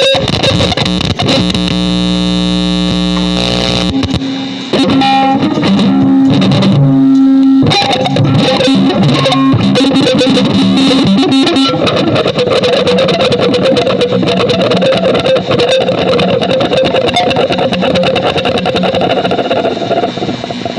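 Experimental music of distorted, effects-laden electric guitar: held pitched notes for the first several seconds, thickening into a dense, noisy drone from about halfway through.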